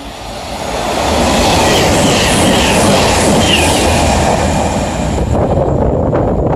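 A Class 221 Voyager diesel-electric train passes through at speed. Its rushing noise of underfloor diesel engines and wheels on rail builds over about a second and a half to a loud, steady level. A run of sharp wheel clicks comes near the end.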